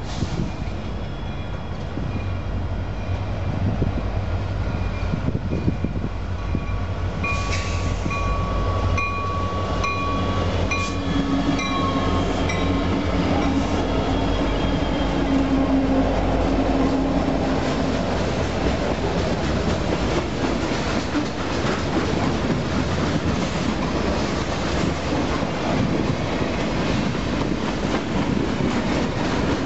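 Freight train passing close by. The Union Pacific diesel locomotives rumble past, with a pulsing high metallic ringing as they go by, and then a long string of freight cars clatters steadily over the rails.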